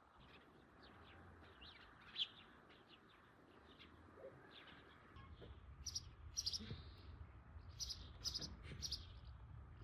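Small birds chirping faintly, with short high calls coming in quick groups in the second half, over a low rumble.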